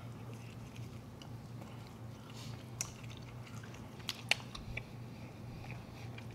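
Close-up chewing of soft garlic bread rolls: quiet wet mouth noises, with a few sharper clicks about three to four and a half seconds in, over a low steady hum.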